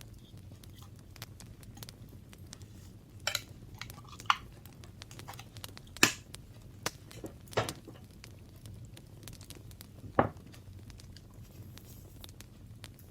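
Paper-crafting handling sounds on a desk: scattered sharp taps and clicks of tools and paper being set down and moved, a few louder knocks among many faint ticks, over a low steady hum.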